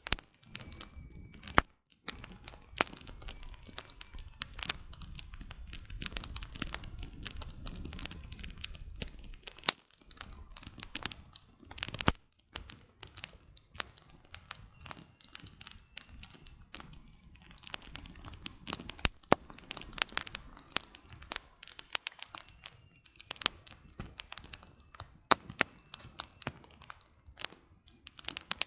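Wood campfire crackling: a dense, irregular run of sharp snaps and pops from burning firewood.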